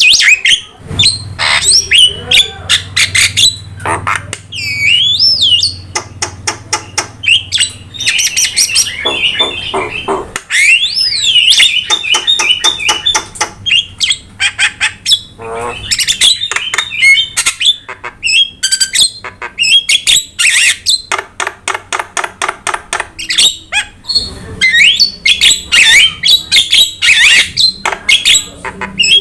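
Starling song: fast rattling clicks alternating with whistled notes that glide up and down and harsh squawks, one phrase running into the next without pause.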